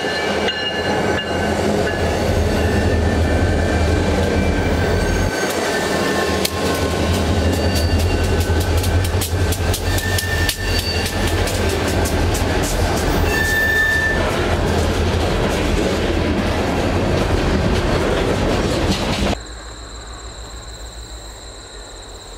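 A train rolling past at close range: a steady low rumble with the wheels clicking rapidly over rail joints and brief high wheel squeals. Near the end it cuts off abruptly to a much quieter background with a steady high-pitched drone at two pitches.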